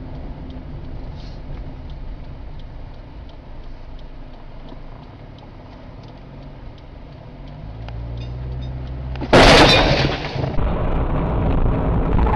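Car engine and road rumble heard from inside a vehicle, the engine note rising shortly before a sudden loud crash about nine seconds in: a collision impact. Loud noise continues after it.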